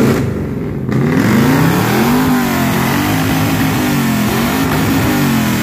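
V8 engine swapped into a 1976 Toyota Corolla KE35, running loud just after its first start and being revved: one big rise in pitch about two seconds in, then several smaller blips up and down.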